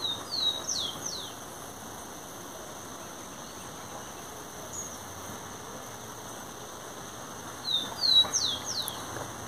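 A songbird sings a short phrase of a few quick descending whistles, then repeats it once near the end. Behind it runs a faint, steady, high insect buzz.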